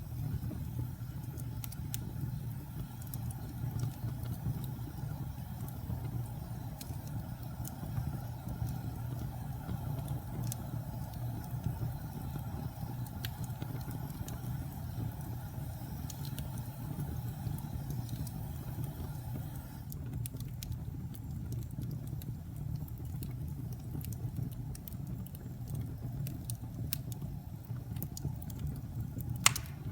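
Wood fire crackling in a fireplace: a steady low rumble of burning with scattered sharp pops and snaps, one louder pop near the end.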